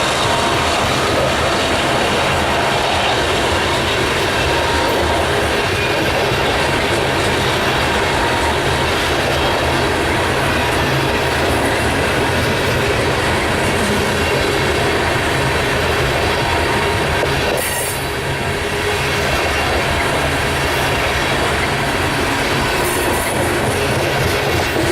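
Freight cars of a BNSF grain unit train rolling steadily past at a level crossing: continuous rumble of steel wheels on the rails with clickety-clack over the joints and some wheel squeal, easing briefly about two-thirds of the way through.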